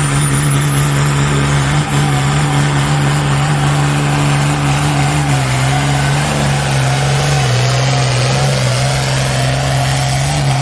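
Turbocharged diesel pulling tractor's engine running hard under load on a pull, with a steady deep note that sags slightly about halfway through and again later. A thin high whistle rises over it near the start.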